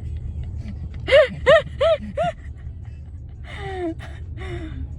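Low, steady road rumble inside a moving car's cabin, with four short pitched vocal sounds in quick succession about a second in, each rising then falling, and two more falling ones near the end.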